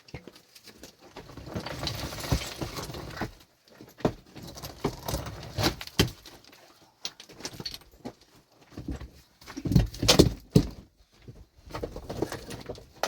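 Irregular knocks, clatters and scraping sounds of objects being handled, with a cluster of louder impacts about ten seconds in.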